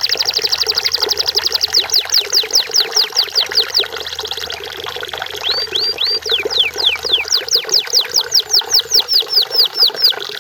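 Canary singing: a rapid high trill, then long runs of repeated downward-sweeping whistled notes, broken about four seconds in by a short held note before another run of sweeps.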